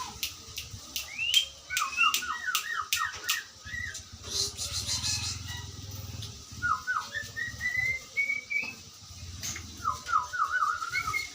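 Bird-like whistled calls: a run of about eight quick falling notes, then a series of rising whistles, and another quick run of notes near the end, with scattered sharp clicks between.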